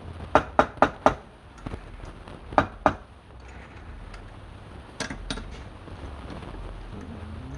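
Sharp knocks of a tool striking wood. Four come in quick succession near the start, then two more about two and a half seconds in, and another two about five seconds in, over a low steady hum.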